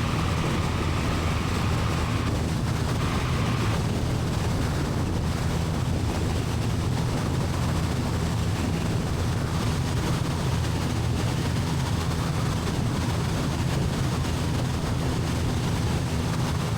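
Light aircraft's piston engine and propeller running steadily at climb power, heard inside the cabin, with a deep droning hum and rushing air noise. A faint high tone fades out in the first few seconds.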